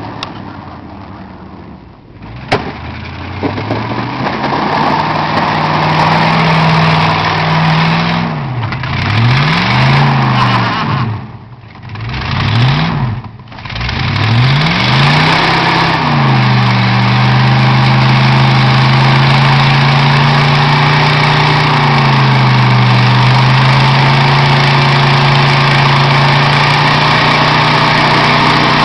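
Engine of a snow-plowing vehicle, revving up and down several times, then running steadily under load. A sharp click sounds about two and a half seconds in.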